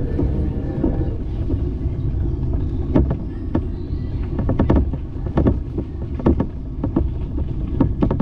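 Steady low rumble of wind and riding noise from a bicycle on the move. From about three seconds in it is broken by a run of sharp clicks and knocks, like the bike rattling over an uneven surface.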